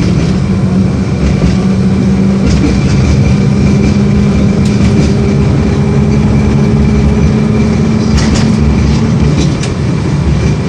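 LVS-86K tram running on its rails, heard from inside the car: wheel-on-rail rumble under a steady traction-motor hum, with scattered short clicks. The hum drops away about nine seconds in and the sound gets a little quieter.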